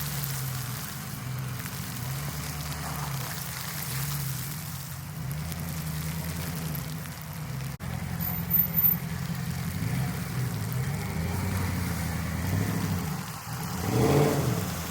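A vehicle engine idling steadily, with a brief rise in pitch near the end.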